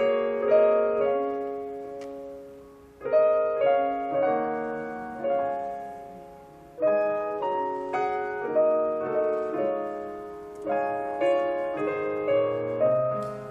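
Keyboard playing slow, gentle chords, each struck and left to ring and fade before the next phrase; a low bass note joins near the end.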